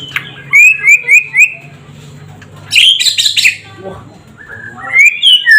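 White-rumped shama (murai batu) singing loudly: a quick run of four rising whistled notes, then a louder, rougher phrase about three seconds in, and more gliding whistles near the end.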